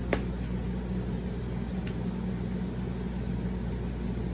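Steady low electrical hum, with one sharp click just after the start and a faint one about two seconds in.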